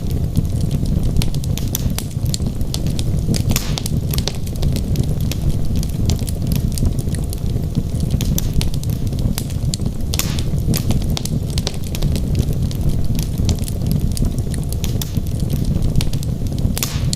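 Wood fire burning in a fireplace: a steady low rumble of the flames with irregular crackles and pops from the burning logs, a few sharper snaps scattered through.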